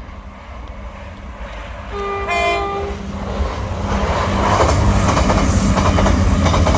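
Class 450 Desiro electric multiple unit sounding a short horn blast about two seconds in. It then runs in, getting steadily louder, with wheels clicking over the rail joints.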